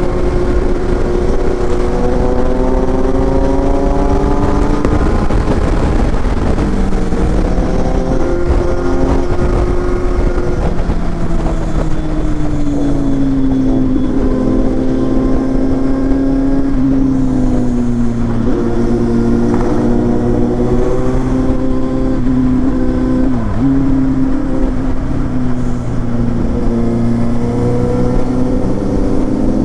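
Kawasaki Z800's inline-four engine running under way, its pitch rising and falling with the throttle, with a few sudden dips in pitch.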